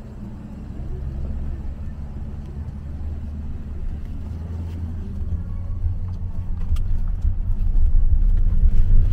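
Car engine labouring on a steep uphill climb, a low rumble that grows louder toward the end.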